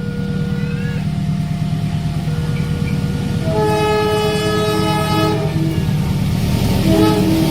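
Diesel train running with a steady low rumble, sounding its multi-tone horn in one long blast of about two seconds midway and a short blast near the end. Before the horn, a steady two-note tone alternates about once a second.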